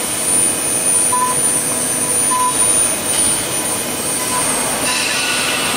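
CNC wood lathe running a finishing pass: the high-speed router spindle runs with a steady high whine while a 6 mm ball-nose bit cuts the turning wood. The cutting noise grows brighter about three seconds in and again near the end.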